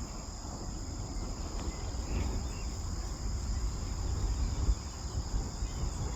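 Steady high-pitched insect chorus, crickets or similar, holding two constant pitches, over a low rumble of wind or handling noise on the microphone, with a few faint bird chirps about two seconds in.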